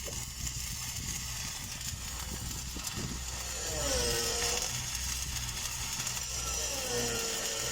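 Engine-driven welding generator running steadily, with a high hiss over it.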